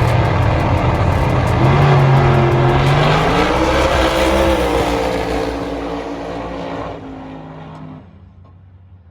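Race truck engine running hard at full throttle, its pitch climbing a couple of seconds in as it accelerates, then fading steadily away over the last few seconds.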